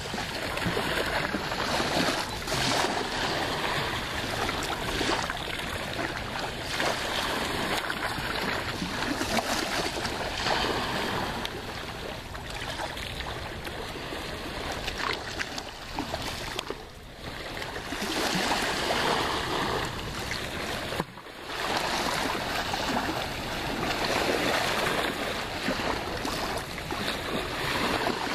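Steady rush of shallow sea water and small waves washing, with two brief sudden dips in the noise past the middle.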